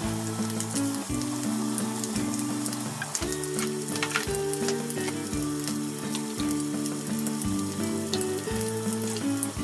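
Meat and green peppers sizzling steadily in a small rectangular frying pan, with enoki mushrooms added a few seconds in and a few light utensil clicks. Background music with a low, stepping bass line plays underneath.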